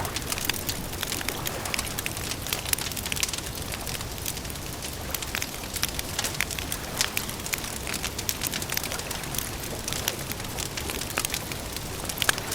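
Wood campfire crackling: a dense run of small, irregular sharp pops over a steady low rumble of burning.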